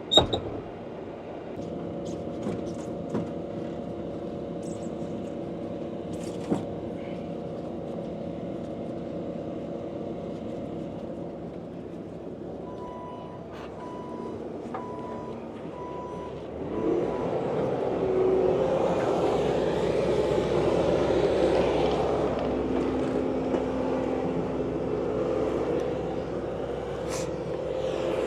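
A vehicle engine idles steadily, then grows louder and rougher from about 17 seconds in as it is worked harder. Around the middle, a short run of about five evenly spaced electronic beeps sounds over it.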